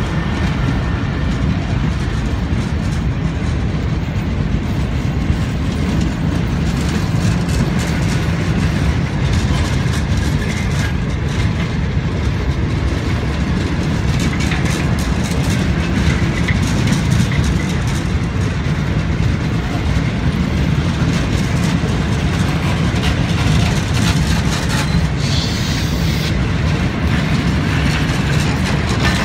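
Pakistan Railways passenger coaches rolling past close by: a steady heavy rumble of wheels on rail, with the wheels clicking over the rail joints.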